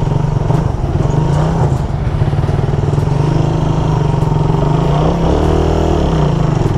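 Suzuki Raider 150 carburetted single-cylinder four-stroke engine running at low road speed, the clutch being slipped to keep it from stalling. The pitch shifts briefly about five seconds in.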